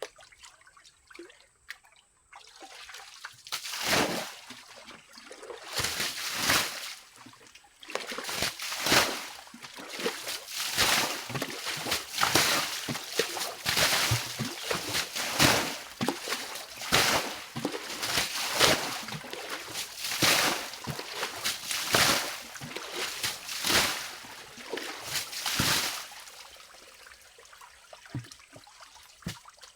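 Water splashing and sloshing in a run of irregular bursts, about one or two a second, starting a couple of seconds in and stopping a few seconds before the end.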